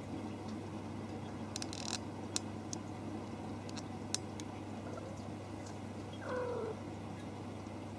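A kitten meows once, a short call of about half a second dropping slightly in pitch, about six seconds in. Before it come a few light clicks or taps, over a steady low hum.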